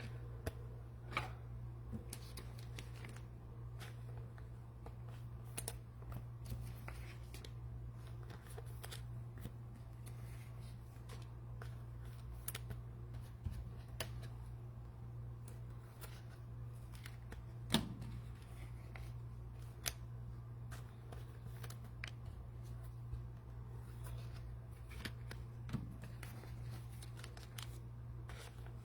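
Trading cards and their plastic packaging being handled: scattered soft clicks, taps and rustles, with a louder tap about 18 seconds in, over a steady low hum.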